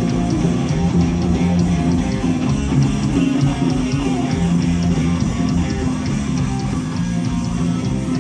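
A live heavy metal band playing: distorted electric guitars and bass over drums keeping a steady beat.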